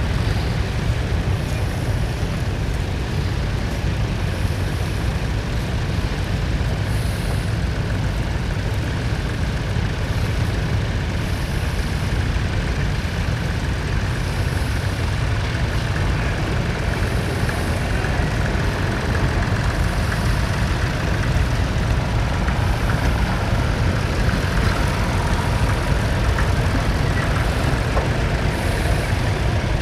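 Vintage tractor engine running steadily under load.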